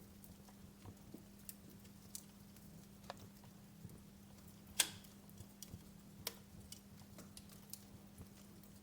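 Wood fire crackling in a fireplace: scattered sharp pops and snaps, the loudest about halfway through, over a faint steady low hum.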